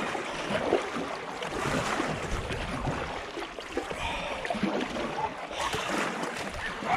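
Canoe being paddled: irregular paddle strokes and water splashing, with a louder splash a little before the end, and wind rumbling on the microphone.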